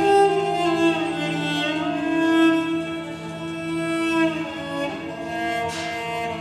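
Music: bowed strings, violin and cello, playing slow sustained notes with gliding pitch changes.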